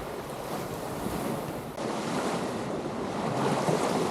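Ocean surf rushing in, with wind buffeting the microphone. The wash swells about two seconds in and grows louder toward the end.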